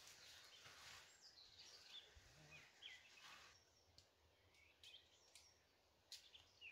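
Near silence, with a few faint, short bird chirps and several soft clicks in the second half.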